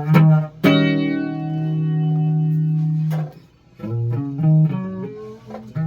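Electric guitar played through effects: a few picked notes, one note held ringing for about two and a half seconds, then a short run of notes.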